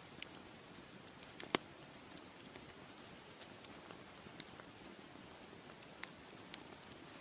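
Campfire crackling: a soft steady hiss of burning wood with scattered sharp pops and snaps at irregular moments, the loudest about a second and a half in and another about six seconds in.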